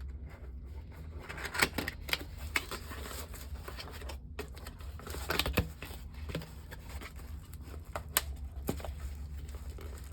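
Hands handling and unwrapping a packaged item: scattered clicks, taps and rustles of plastic and paper, with a steady low hum underneath.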